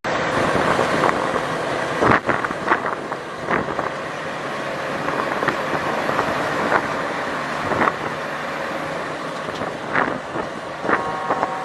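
Steady road and traffic noise from a moving vehicle, broken by scattered sharp knocks and clicks. Near the end a steady pitched tone comes in.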